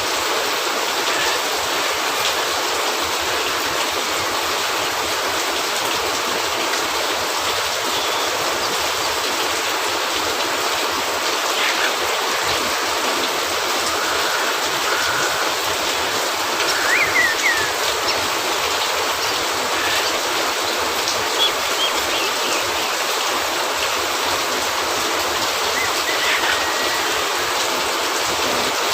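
Steady rain hissing down on a cabin roof and the woods around it, with a few faint short sounds now and then.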